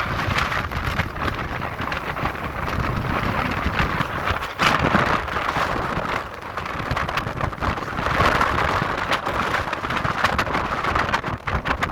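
Strong wind buffeting the microphone in gusts, over the rush of sea waves breaking.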